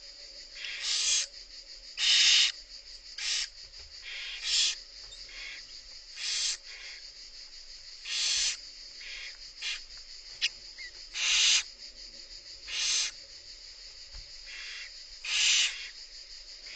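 Barn owls in a nest box giving about a dozen harsh hissing calls, each roughly half a second long and one to two seconds apart, over a steady high hiss.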